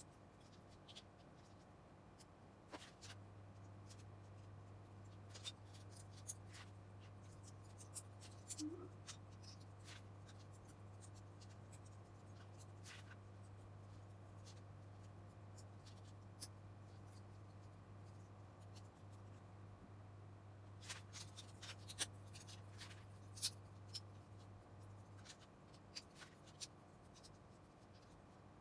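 Faint handling of LEGO bricks: scattered small plastic clicks and rustles, busiest about three quarters of the way through. A low steady hum sets in a few seconds in and stops near the end.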